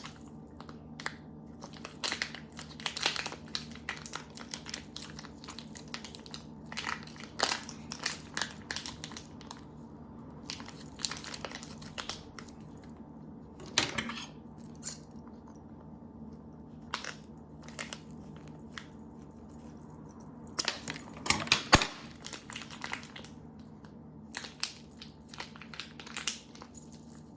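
Plastic wrapping crinkling and rustling as it is handled, in irregular bursts with scattered clicks and taps. The loudest burst comes about three-quarters of the way through.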